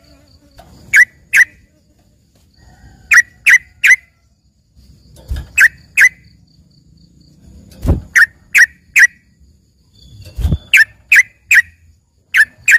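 Yellow-vented bulbul (trucukan) calling, short phrases of two or three sharp, quickly falling chirps, repeated about every two seconds. A few dull low thumps come between the phrases.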